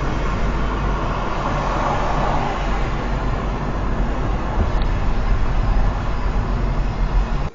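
Steady, loud vehicle and road noise, heaviest in the low end, cutting off abruptly near the end.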